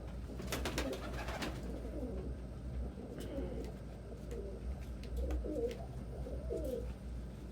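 Domestic pigeons cooing, a string of low coos that rise and fall in pitch, with a few sharp clicks or rustles in the first second or so.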